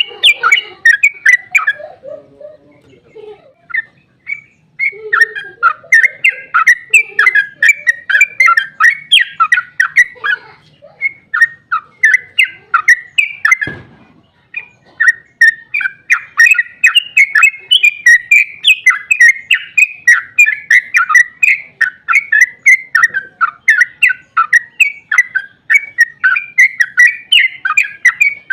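Yellow-vented bulbul (trucukan) singing a long, fast run of rapid chattering notes with brief pauses, one pause a couple of seconds in and another about halfway. A single short knock sounds about halfway.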